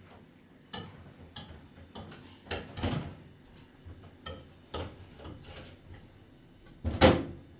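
Irregular knocks and scraping sounds, about a dozen spread unevenly, the loudest about seven seconds in.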